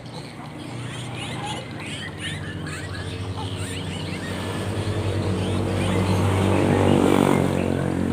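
Many small birds chirping, with a motor vehicle's engine running underneath that grows louder toward the end and is loudest about seven seconds in.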